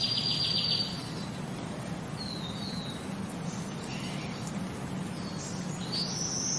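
Birds chirping: high whistled notes and a fast trill in the first second, fainter short chirps in the middle, and the chirps and trill again near the end, over a steady low hum.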